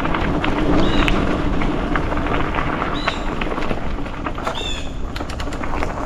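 A mountain bike running fast down a dirt trail: a steady rush of wind over the microphone, tyres on dirt, and the frame and parts rattling and knocking over the bumps. A few short high squeaks come through about once every second or two.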